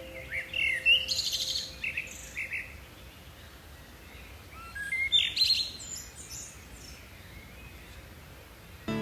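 Birds chirping in short, quick calls, in two spells: one in the first few seconds and another about five seconds in, over a faint steady hiss.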